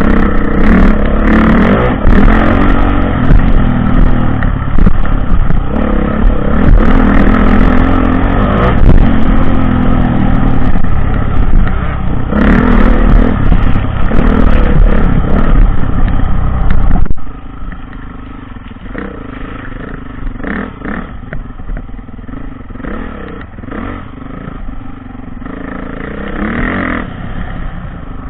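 Dirt bike engine running hard close by, rising and falling in revs, with sharp clicks and rattles. About seventeen seconds in, the sound drops abruptly to a much quieter engine that carries on.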